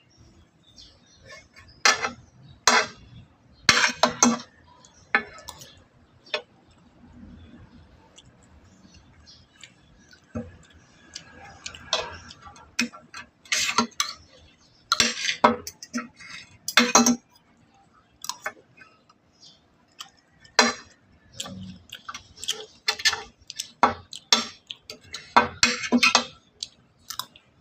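Eating at a table: irregular sharp clicks and clinks of cutlery against dishes, mixed with mouth sounds of chewing.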